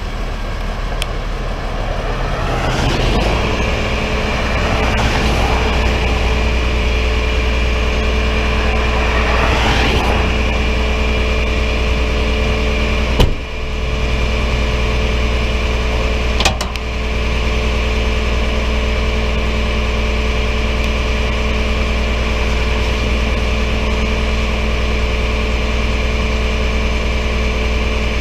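Vehicle engine running steadily, with two sharp knocks a few seconds apart about halfway through.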